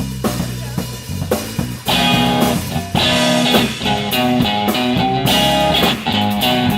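Live blues band instrumental: drums and bass guitar play alone at first, then a guitar comes in about two seconds in, playing over the beat.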